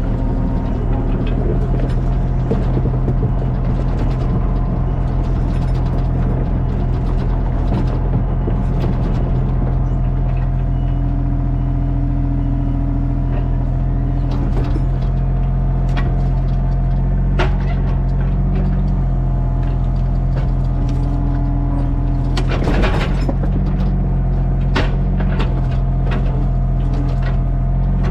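A home-built 6 ft wide bandsaw sawmill running steadily while sawing a London plane log, giving a loud, even machine hum with scattered clicks and ticks and a brief louder crackle near the end.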